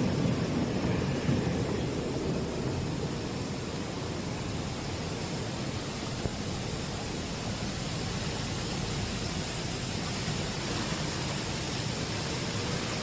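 Ginger washing and peeling machine running with a steady, even noise and no rhythm. It is a little heavier and lower in the first couple of seconds, with one brief click about six seconds in.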